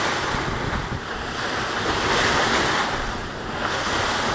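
Wind buffeting the phone's microphone over the rush of sea water along a moving boat's hull, a steady noise that swells and eases gently.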